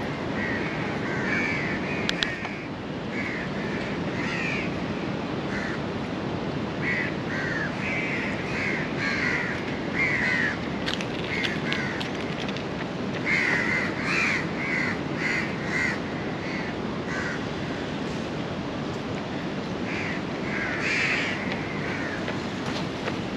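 Birds calling over and over in short harsh bursts, in clusters with brief gaps, over a steady background din.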